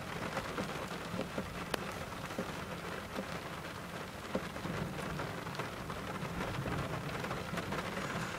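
Steady rain falling during a thunderstorm, an even hiss scattered with short, sharp raindrop ticks.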